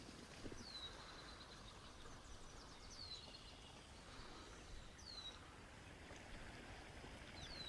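Quiet outdoor ambience with a bird repeating a short high call, a quick falling whistle, four times about every two seconds.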